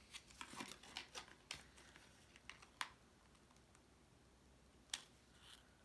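Faint taps, clicks and light rustles of cardstock being handled and pressed into place, with a sharper tap about three seconds in and another near five seconds.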